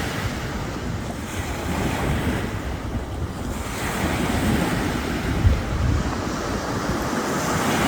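Ocean waves breaking on a beach, a steady wash of surf, with gusty wind buffeting the microphone in low rumbles.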